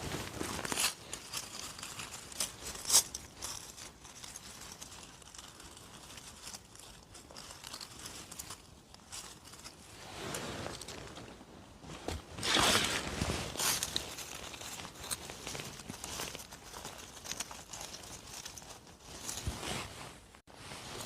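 Rustling and crunching of leaf litter and twigs from footsteps and hands picking mushrooms off the forest floor, in irregular bursts with small snaps. It is loudest a little past halfway through.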